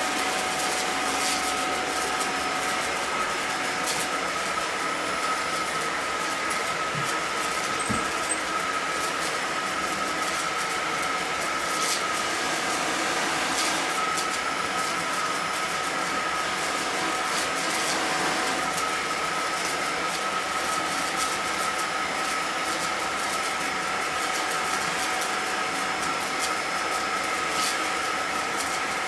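Vacuum cleaner running steadily: an even rushing noise of the motor and airflow with a steady high whine.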